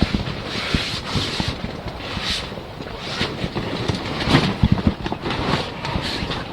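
Wind buffeting the microphone, with irregular knocks and thumps scattered throughout, some louder ones about four to five seconds in.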